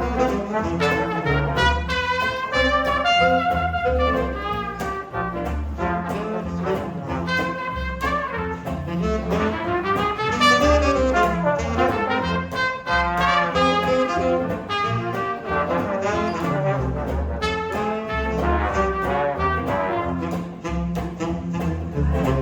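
Live jazz band playing an instrumental passage, brass horns carrying a melody over a steady beat.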